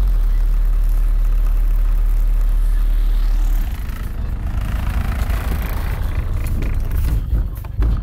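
Car audio system in a Volkswagen Golf Mk2 playing loud deep bass: a steady low bass note that about three and a half seconds in gives way to a choppier, noisier passage.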